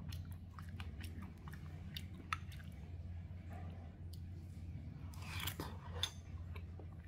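A person chewing mouthfuls of pomelo sweet soup, working the chewy, starch-coated pomelo-pith cubes with irregular small clicks and crunches, over a steady low hum.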